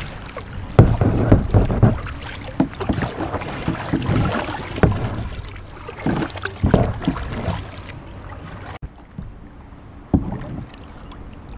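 Water splashing around a kayak as it is paddled, with an irregular run of paddle strokes. The background drops abruptly about nine seconds in, after which the splashes are fewer and quieter.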